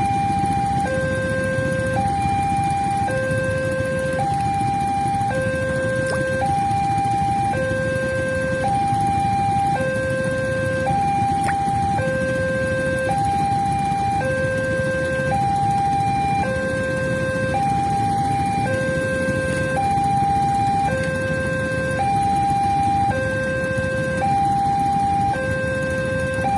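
Railway level crossing warning signal: an electronic two-tone alarm alternating high and low, about one tone a second, repeating without a break. A steady low rumble runs beneath it.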